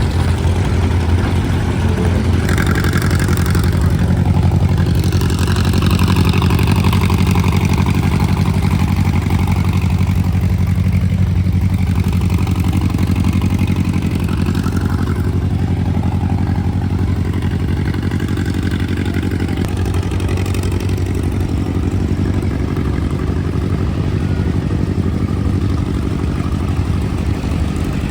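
An engine running steadily at idle, with a low, rapid firing beat and some mechanical clatter.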